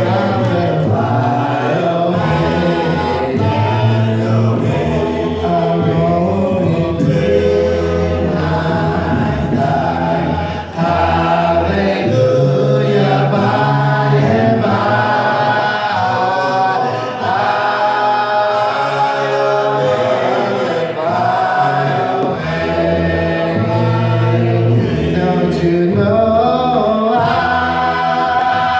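A church congregation singing a hymn together, many voices in harmony with a strong low bass part, continuing steadily.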